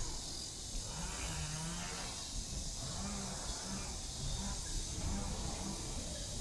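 Low voices of passers-by talking, wavering in pitch, over a steady high-pitched hiss in the open air.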